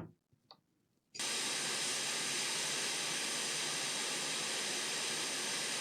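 Hot air rework station blowing a steady hiss of air, starting suddenly about a second in, as it heats a MOSFET on a laptop motherboard to desolder it.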